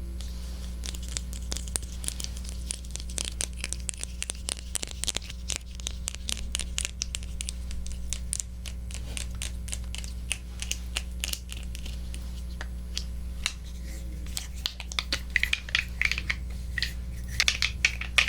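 Close-up ASMR crackling and scratching: a dense run of small, sharp clicks, with louder clustered crackles near the end.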